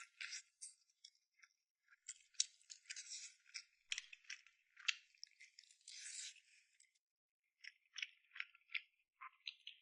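Faint, irregular clicking and crackling of close-up eating: food being chewed and picked at, a quick run of small clicks with a denser stretch in the middle.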